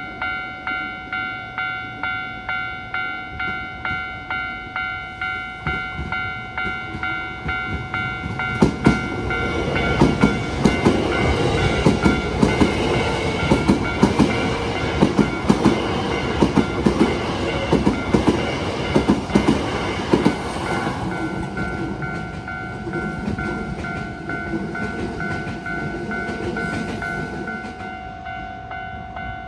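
Japanese level-crossing alarm sounding its repeating kan-kan, about one and a half strokes a second. About eight seconds in, a Hankyu electric train passes over the crossing for roughly twelve seconds, its wheels clacking over the rail joints in a regular rhythm, before it fades and the alarm carries on.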